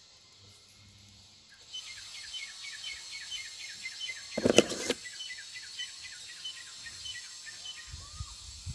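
A bird chirping a quick, even series of short high notes, about three a second, starting a couple of seconds in. About halfway through there is a brief loud rustle from the phone being handled.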